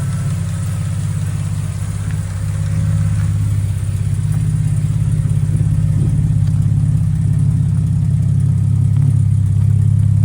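Jaguar XK140's 3.4-litre twin-cam straight-six idling steadily at low revs, still cold just after a cold start. It gets slightly louder a couple of seconds in.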